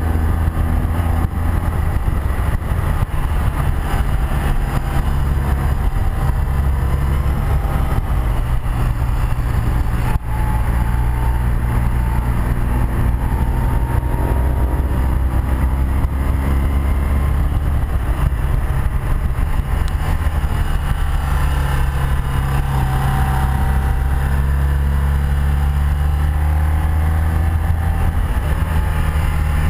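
Motorcycle ride heard from the rider's seat: a 1984 BMW R100RS's air-cooled flat-twin engine running under steady throttle, its speed rising and falling gently, with wind rushing over the microphone.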